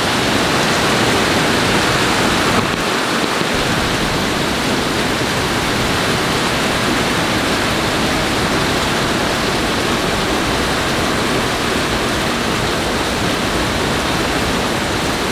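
Steady, loud rushing of water during a rainstorm, an even hiss with no breaks, which dips slightly about two and a half seconds in.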